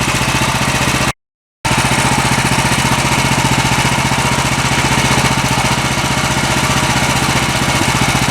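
Small gasoline engine of a portable bandsaw sawmill running steadily at an even speed. The sound drops out completely for about half a second a little after a second in, then resumes unchanged.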